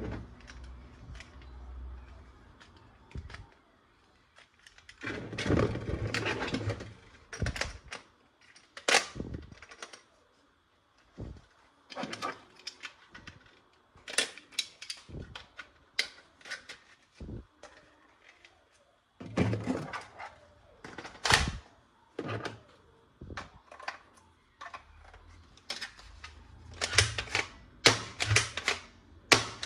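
Plastic toy guns and their parts being handled: irregular clicks, clacks and knocks, some in quick clusters, with a few louder snaps.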